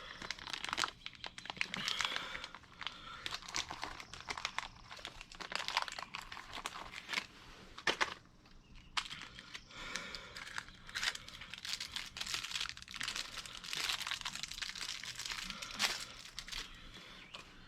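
Plastic packaging crinkling and tearing as it is handled and opened, with many small clicks and knocks throughout.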